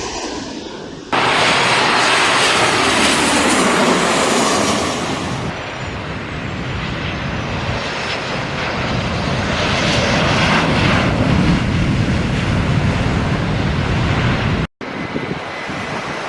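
Large jet airliner passing close by: a loud engine rush with a faint falling whine that starts abruptly about a second in and eases off after about five seconds. The sound breaks off for an instant near the end and comes back quieter.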